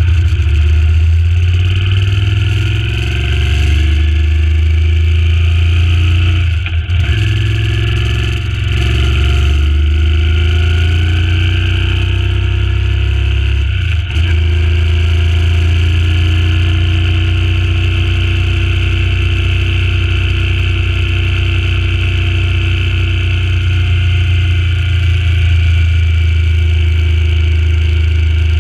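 Suzuki Intruder C800's 805 cc V-twin engine pulling as the bike rides along, rising in pitch and dipping briefly twice as it shifts up a gear, then running steadily. Wind noise rushes over the microphone.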